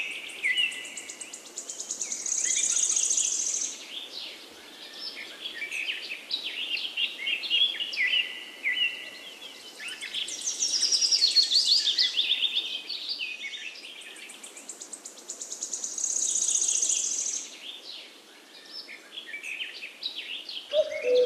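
Small birds singing: a dense chorus of chirps, whistles and quick trills, with a high buzzy trill coming back three times.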